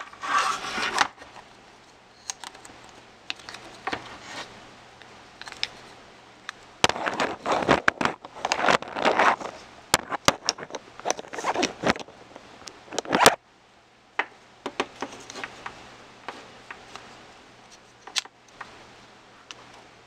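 Clicks, scrapes and rustles of small plastic RC-truck parts and hand tools being handled. A busier stretch of scraping and rustling in the middle stops abruptly, and scattered clicks follow.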